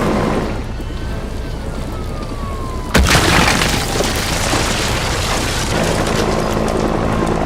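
A falling whistle, then a single loud boom with a rumbling tail about three seconds in, over a steady low drone.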